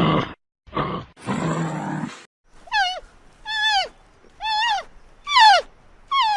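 Animal vocalisations: three short, rough grunts in the first two seconds, then a run of five short, high-pitched calls, each arching and then dropping sharply in pitch, about one a second.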